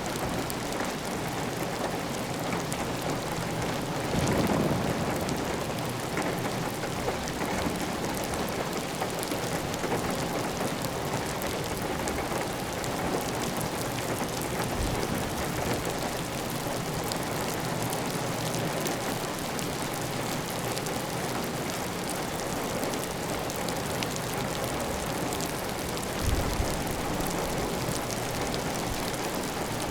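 Heavy, steady rain on a tiled roof, with water running off the roof edge. There is a louder low swell about four seconds in and a short low thump near the end.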